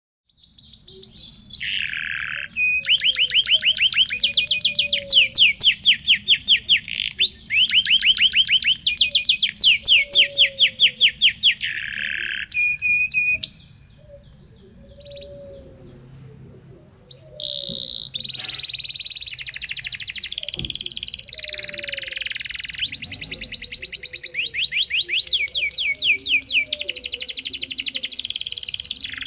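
Local-bred domestic canary singing long, fast rolling trills of rapid repeated high notes, mixed with chirps. The song breaks off for about three seconds midway, then resumes.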